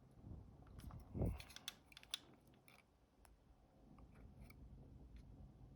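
Faint handling noises of small tools on an opened camera: two soft knocks in the first second or so, then a few sharp little clicks, then only a faint low rustle.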